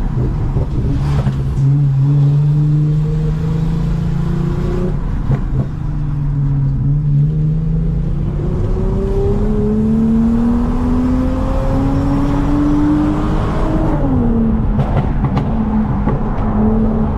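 Toyota Mark X's V6 through a modified exhaust, running steadily at first, then climbing in revs under acceleration for about eight seconds before the revs drop sharply near the end.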